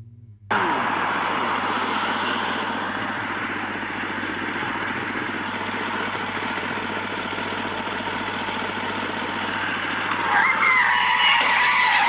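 Steady road noise of a moving car, cutting in abruptly about half a second in. Near the end a wavering high-pitched tone joins it and the noise grows louder.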